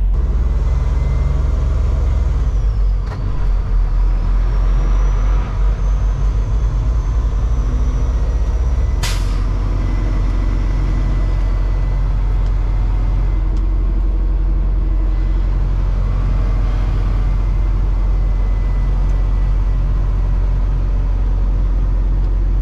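Semi-truck's diesel engine running steadily in a low rumble, with a short, sharp hiss of air from the air brakes about nine seconds in.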